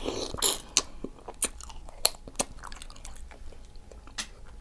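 Close-miked chewing and biting of seafood-boil food: wet mouth smacks and sharp clicks at irregular intervals.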